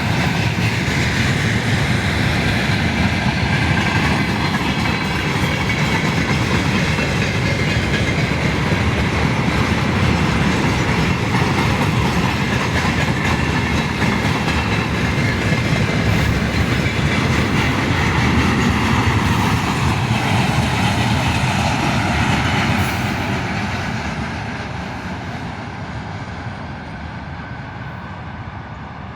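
A freight train of tank cars rolling past with steady wheel-on-rail noise, which fades away over the last several seconds as the train moves off.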